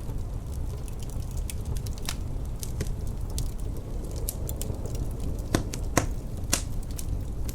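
Wood fire crackling, with scattered sharp pops and a cluster of the loudest three a little past two-thirds through, over a steady low rumble of blizzard wind.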